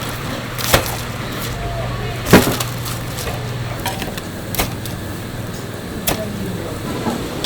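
Knife chopping on a wooden cutting board: five sharp, irregular strokes a second or more apart, the second the loudest.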